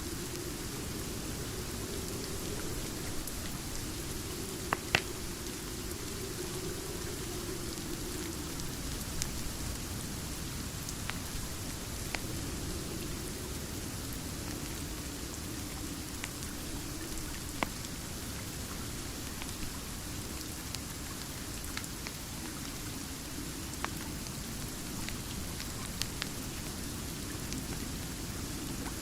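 Steady rain mixed with a wood fire, with scattered sharp crackles and pops throughout. The loudest is a pair of pops about five seconds in.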